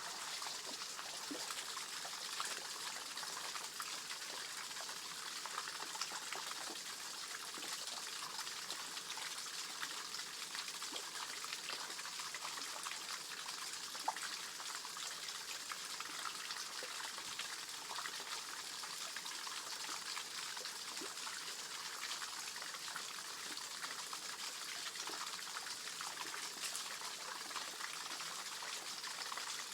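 Water running steadily over a small waterfall, a constant trickling splash, with one sharp tick about halfway through.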